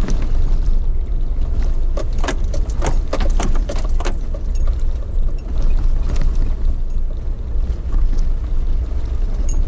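A vehicle on the move, heard from inside: a steady low running rumble, with a run of sharp rattles and clinks about two to four seconds in.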